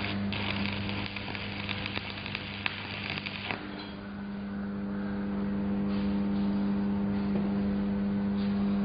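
Stick-welding (SMAW) arc crackling and sizzling with sharp pops for about three and a half seconds, then stopping abruptly as the arc is broken, over a steady low hum.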